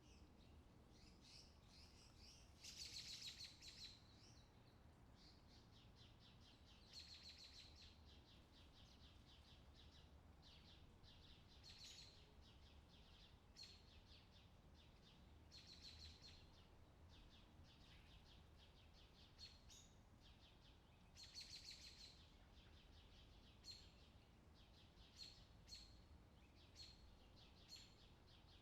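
Faint birdsong: bursts of rapid, high chirping every four or five seconds, then short single chirps repeating through the second half, over a faint low background rumble.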